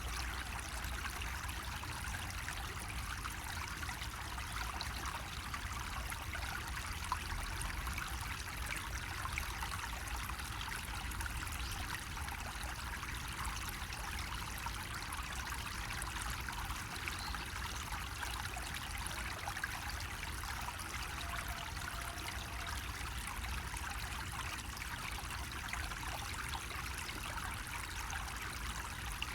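Water running steadily from a bamboo spout, a continuous trickling splash with a low rumble underneath.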